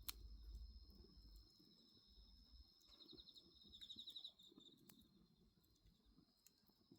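Crickets trilling steadily in the night air, one of them close by breaking into a rapid pulsed chirp for about a second a little past the middle. A few sharp pops from a crackling wood bonfire punctuate it.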